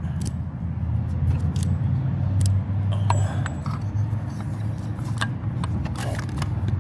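Metal hand tools clinking and scraping as a socket is worked onto a new oil pressure sensor, irregular sharp clicks over a steady low hum.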